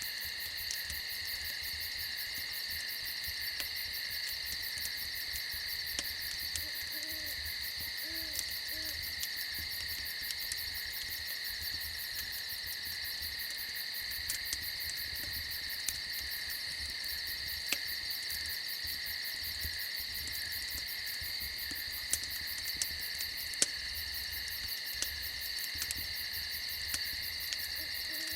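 Steady night chorus of crickets trilling, with an owl hooting a few short low notes about a quarter of the way in and again near the end. Scattered sharp pops from a crackling campfire.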